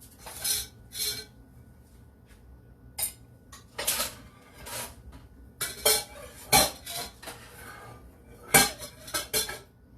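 Kitchen pans, dishes and cutlery being handled: a string of separate clinks and clanks, with two louder knocks about two-thirds of the way through and near the end.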